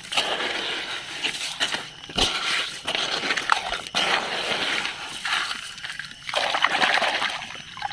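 A toy vehicle being cleaned by hand: irregular swishing, sloshing and trickling noises, with a few sharp knocks of plastic being handled.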